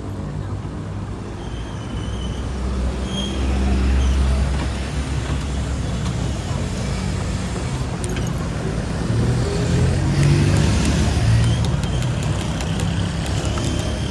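Motorbike engine running through city street traffic, with other vehicles' engines and steady road noise.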